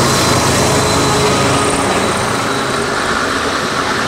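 BNSF diesel freight train passing, its locomotive engines and steel wheels on rail making a loud, steady noise with a faint high tone running through it.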